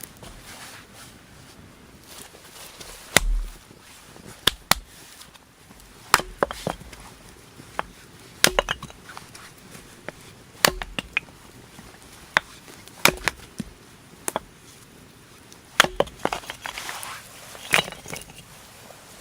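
Wood being chopped with an edged tool: about a dozen sharp, hard blows, roughly one every two seconds and some in quick pairs.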